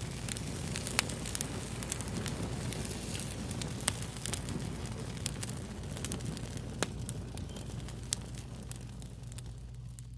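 Wood fire crackling: a steady hiss with frequent sharp pops and snaps, thinning out near the end.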